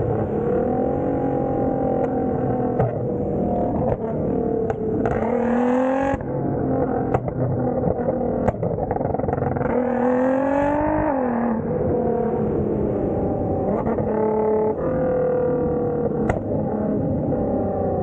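Straight-piped Nissan GT-R's twin-turbo V6 running under way, its revs holding and then climbing twice before dropping back, with a few sharp cracks scattered through.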